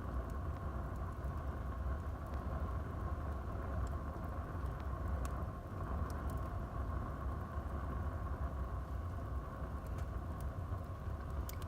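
Wood fire burning in a fireplace: a steady low rumble of the flames with a few sharp crackles and pops scattered through.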